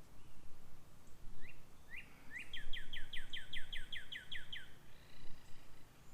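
A songbird singing: a couple of short rising notes, then a fast trill of about a dozen quick downward-sweeping notes lasting a little over two seconds, and a fainter whistled phrase near the end.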